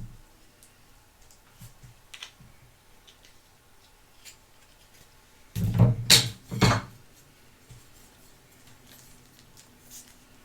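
Close-up handling of small hard objects: scattered light clicks and taps, then a loud cluster of three quick knocks or scrapes about six seconds in.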